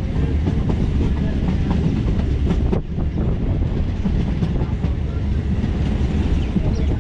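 Electric multiple unit (EMU) local train running at speed, a steady rumble of wheels on rail with rapid clicking. Heard from an open window beside the coach, with a brief dip in the noise a little under three seconds in.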